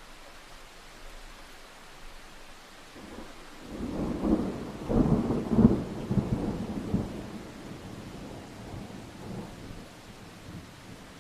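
Steady rain hiss, with a peal of thunder that builds about three seconds in, rolls through several loud surges, then rumbles away before the end.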